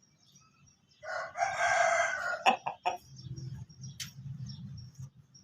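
Aseel rooster crowing once, a call of about a second and a half, followed by a few sharp taps.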